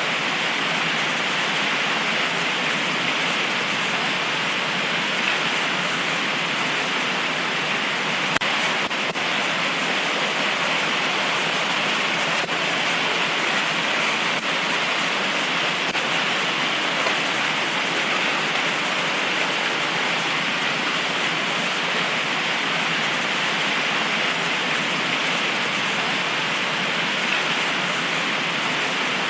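Heavy tropical rain pouring down steadily, a dense, even hiss with no break.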